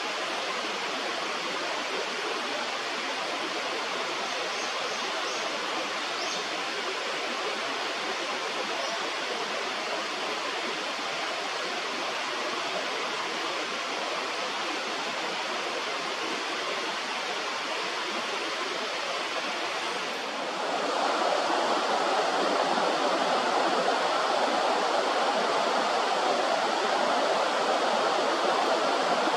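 Steady rushing of flowing stream water. About twenty seconds in it suddenly becomes louder and fuller. A few faint, short high chirps sound in the first ten seconds.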